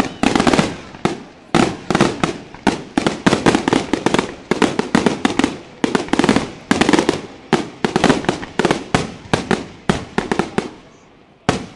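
Aerial firework shells bursting in a rapid, continuous barrage of sharp bangs, several a second. The barrage dies away about ten and a half seconds in, and a fresh bang comes just before the end.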